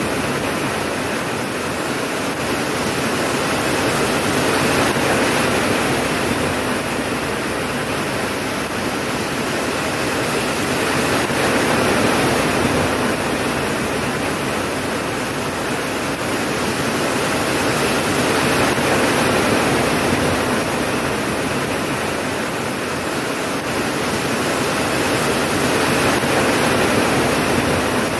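Steady heavy rain, a dense even hiss that swells and eases gently about every seven seconds.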